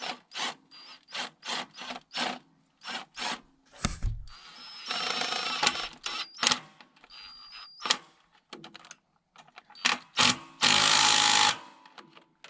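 Hand-tool work: a quick run of short clanking or ratcheting sounds, about two a second, then longer noisy bursts, the loudest a second long near the end.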